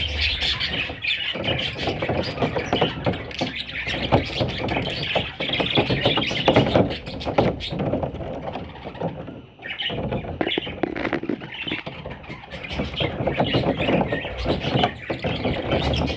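Pet budgerigars chattering and chirping continuously in a dense stream of short calls, with a brief lull about halfway through.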